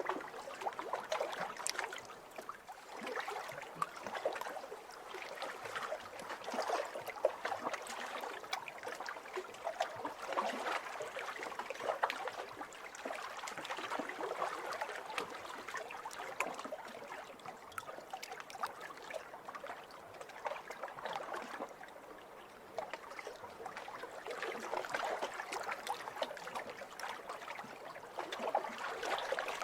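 Small waves lapping over pebbles, with the fine crackle and trickle of water washing through stones, swelling and easing every few seconds.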